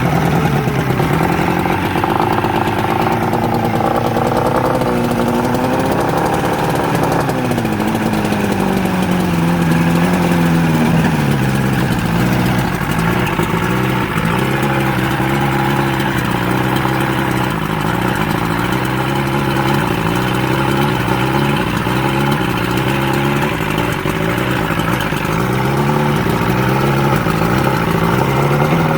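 Johnson 115 HP two-stroke V4 outboard engine running just after starting, now firing on all cylinders with its spark plug wires reconnected. Its speed wavers and drops over the first ten seconds or so, then settles into a steady idle.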